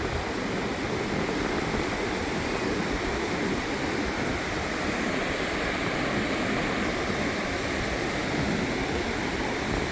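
Gentle surf washing onto a sandy beach: a steady rushing of waves with a low, uneven rumble underneath.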